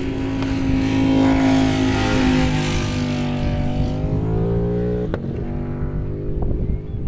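Track-day motorcycle passing at speed, its engine note held high, then sinking in pitch and fading after about five seconds. There is a sharp click about five seconds in, and wind rumble on the microphone underneath.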